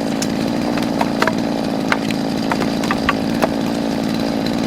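Chainsaw running steadily while cutting wood, with frequent short sharp clicks and cracks through it.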